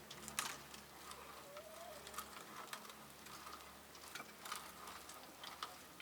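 Faint, scattered sharp clicks and ticks at irregular intervals, with one brief rising chirp about a second and a half in.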